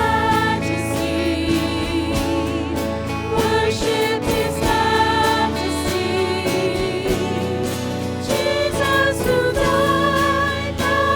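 Church music: voices singing a hymn with accompaniment, in long held notes with vibrato and a new phrase starting about eight seconds in.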